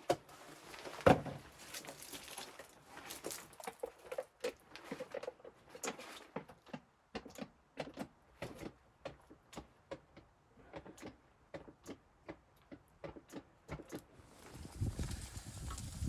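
Irregular light knocks and clicks of things being handled, with one sharp knock about a second in. A steady rushing noise comes in near the end.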